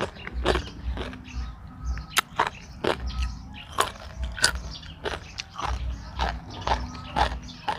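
A person chewing and crunching food close to the microphone: irregular crisp crunches, about two or three a second, over soft rhythmic low thuds of the jaw.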